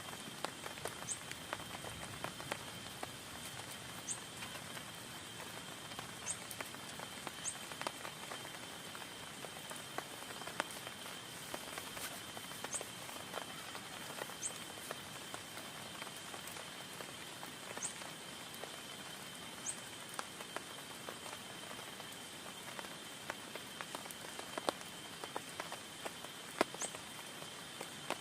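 Rain falling on a tent, a steady hiss with many separate drops ticking sharply on the fabric.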